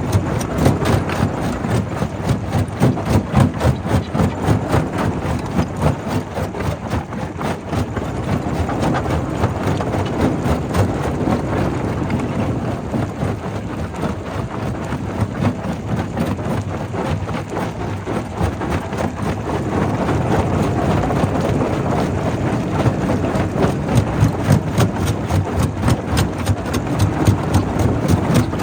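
Primary rock crusher running: a steady heavy machine drone with a dense, continuous clatter of rock knocking and breaking.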